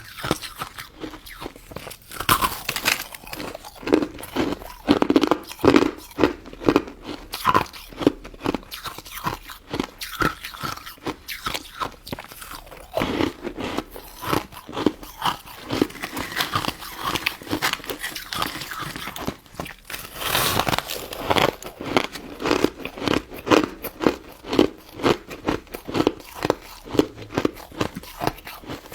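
Close-up biting and chewing of a crunchy frozen crystal snow ice dessert. It is a steady run of crisp crunches, often about two a second.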